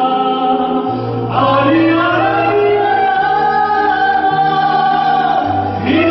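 A vocal duo singing a song over instrumental backing, with long held notes that glide between pitches above a bass line that steps to a new note every second or so.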